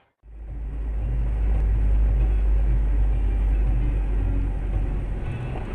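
Steady low rumble of a car on the move, road and engine noise, starting abruptly just after a moment of silence.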